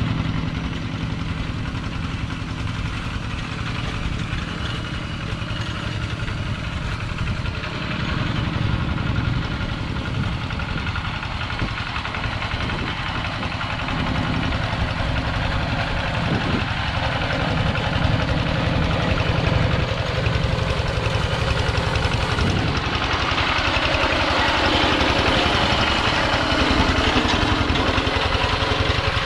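Two-wheel tractor engine running steadily with a fast, even pulsing. About three-quarters of the way through, a brighter, harsher noise builds over it.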